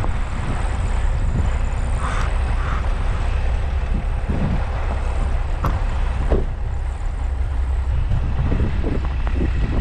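Heavy diesel farm machinery running steadily, a deep low rumble throughout, with a few faint clicks and knocks over it.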